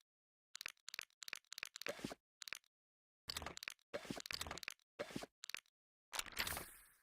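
A run of short crackling, crunching noises with dead silence between them, ending in a longer hissing burst a little after six seconds that fades away.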